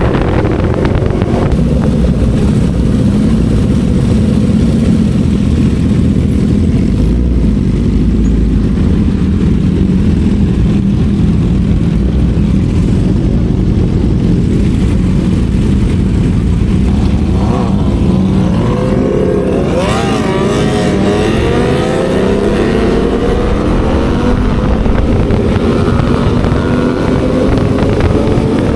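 Motorcycle engine and exhaust on the move, running at a steady pitch for most of the time. The pitch wavers and shifts about two-thirds of the way through, then climbs steadily near the end as the bike accelerates.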